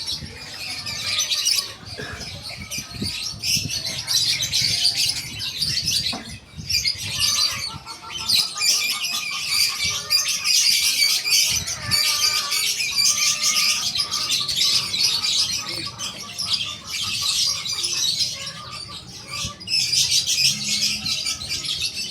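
Many caged birds chirping and twittering at once in a dense, continuous chorus.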